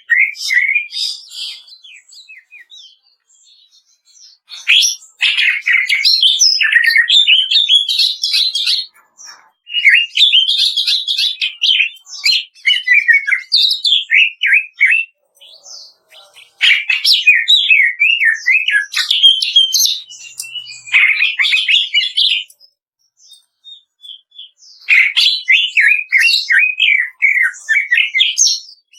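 Greater green leafbird (cucak ijo) singing fast, chattering 'kretekan' song in bursts of several seconds, with short pauses between bursts.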